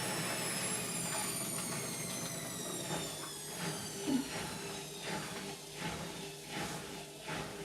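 Indesit washing machine winding down from its spin: the motor's high whine falls steadily in pitch over the first few seconds, then the slowing drum gives soft rhythmic swishes about every three-quarters of a second.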